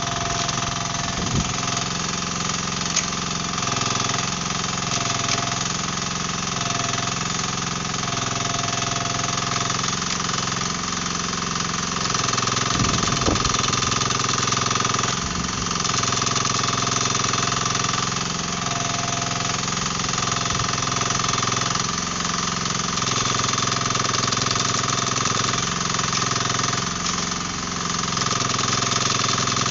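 Dasen 15 mini excavator's engine running steadily, its sound swelling and easing every couple of seconds as the machine works, with a few short knocks.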